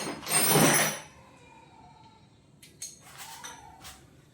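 Metal hand tools clattering: a loud rattle through the first second, then a few light clinks about three seconds in.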